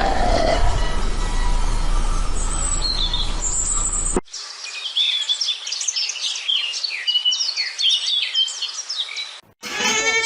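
Outdoor background with a low rumble and scattered bird chirps, cut off abruptly about four seconds in. Then comes a dense flurry of many short, falling bird chirps. Just before the end a goat begins bleating.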